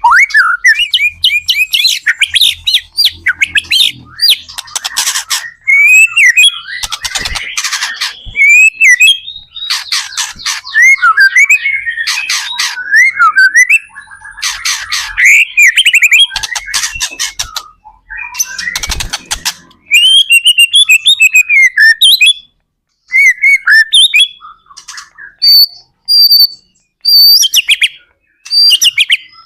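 White-rumped shama (murai batu) singing loud, varied song: rapid rising and falling whistles mixed with fast rattling trills and harsh notes, with brief pauses between phrases in the second half.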